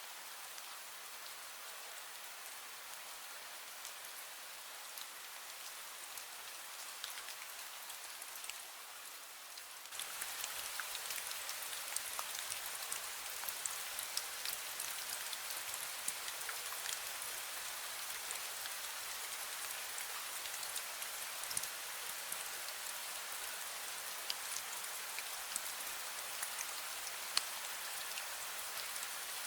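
Fine rain falling steadily, a dense patter of small drops, stepping up abruptly to a louder fall about ten seconds in.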